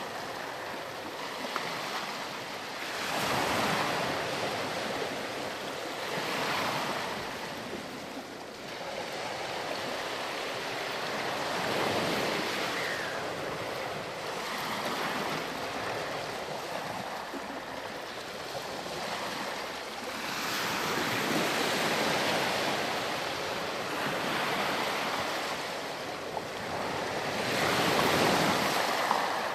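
Ocean waves breaking and washing up on a beach, a steady rush of surf that swells and ebbs every few seconds.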